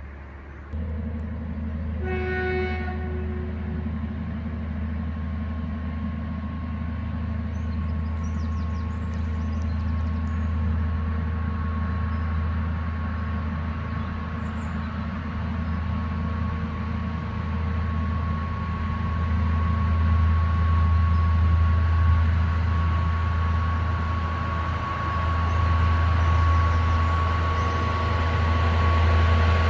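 Shunting locomotive running under load as it hauls bitumen tank wagons, a steady low engine drone with a steady high whine above it. It gives one short horn toot about two seconds in, and grows louder toward the end as it comes closer.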